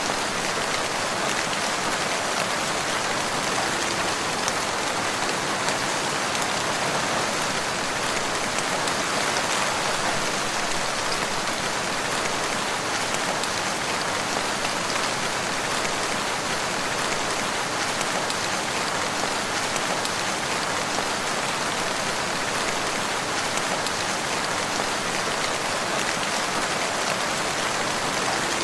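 Steady rain falling and pattering on surfaces, an even hiss with no change and no thunder.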